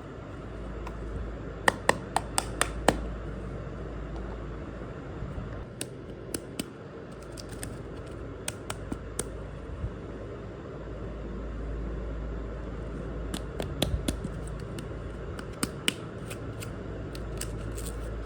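Small miniature toy kitchen pieces being handled, giving sharp light clicks and taps in short clusters, over a steady low background hum.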